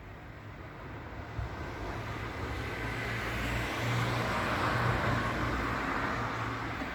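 Road traffic: a passing vehicle's engine hum and tyre noise swell, loudest about four to five seconds in, then ease off a little.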